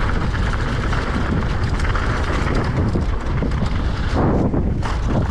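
Strong wind buffeting the microphone, a steady loud rumble with crackling, alongside the noise of moving at speed.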